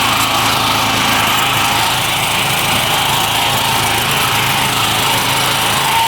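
A mini tractor's small engine running steadily at an even speed.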